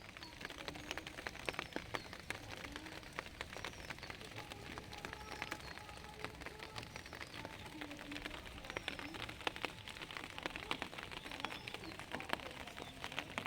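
Light rain pattering steadily, many small drops ticking on nearby surfaces.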